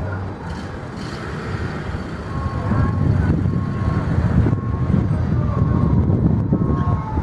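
Airport apron noise: a steady low rumble of engines and vehicles, with a thin high-pitched tone sounding in several short stretches from about two seconds in.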